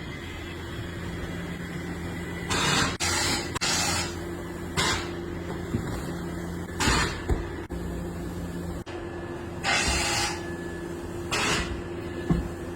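Short bursts of hissing air, about ten of them at uneven intervals, over a steady low machine hum.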